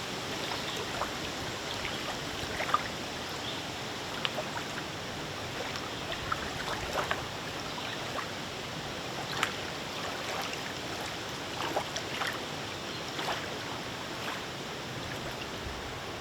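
Small wind-driven waves lapping on a lake, a steady wash of water with frequent small splashes and clicks.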